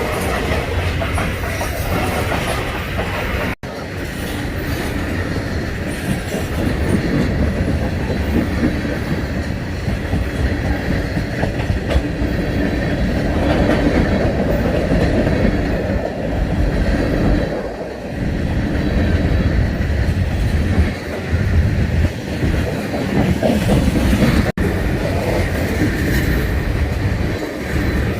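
Freight train cars rolling past, their wheels clattering over the rail joints in a steady, continuous rumble.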